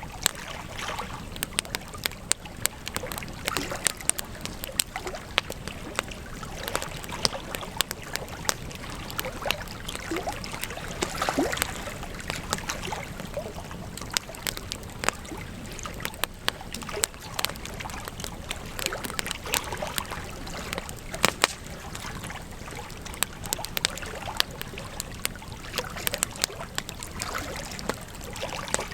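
Campfire crackling: a steady hiss with frequent sharp, irregular pops and snaps from the burning wood.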